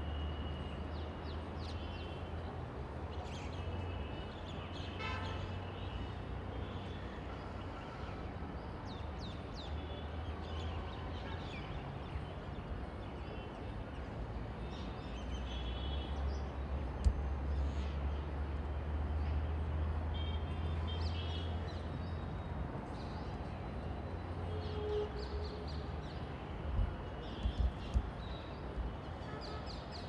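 Outdoor ambience of a steady low rumble with scattered short bird chirps and calls. A few sharp knocks stand out, one about halfway through and a cluster near the end.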